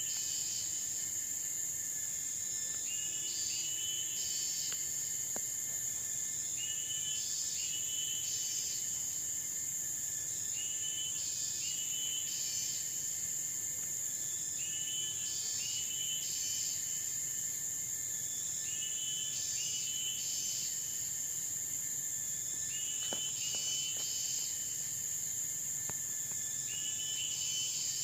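Tropical forest insects droning steadily at a high pitch, with a short chirping call coming back about every four seconds.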